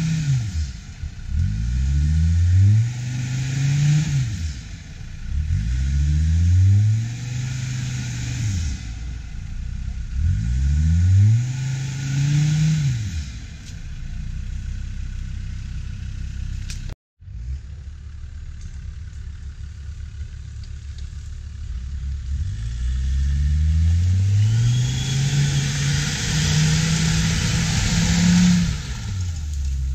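Off-road 4x4's engine revving hard in repeated bursts, its pitch climbing and falling about every two to three seconds. After a sudden cut a little past halfway it runs more steadily, then rises in one long rev near the end.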